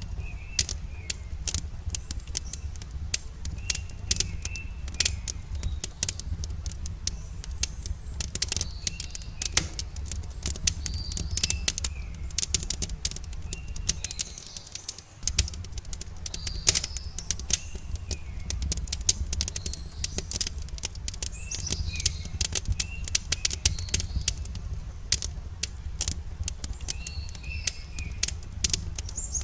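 Campfire wood crackling with many irregular sharp pops and snaps over a steady low rumble, while birds chirp in short repeated calls in the background.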